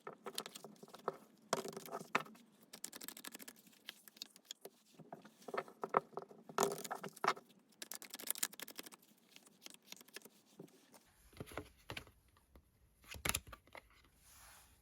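Tarot cards being shuffled and handled: quick runs of rustles and clicks of card stock, thinning out to a few sparser clicks over a faint hiss for the last few seconds.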